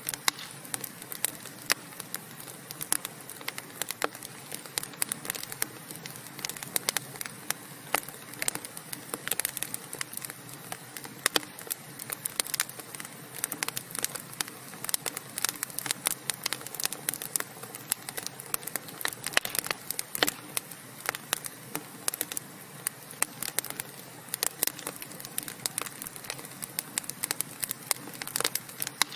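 Wood fire burning in a fireplace: a dense, irregular run of sharp crackles and pops over a steady low hiss.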